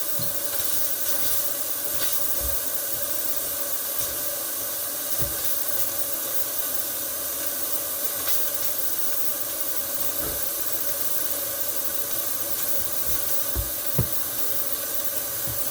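Steam cleaner hissing steadily as it blows steam to melt the ice out of a frozen-up freezer, with a faint steady tone under the hiss. A sharp click comes near the end.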